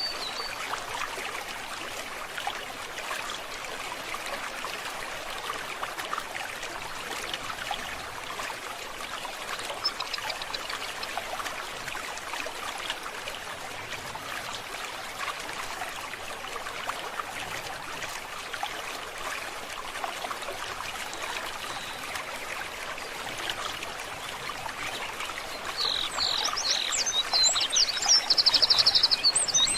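A forest stream babbling steadily over stones. Near the end a songbird starts up with quick chirps and a fast trill, louder than the water.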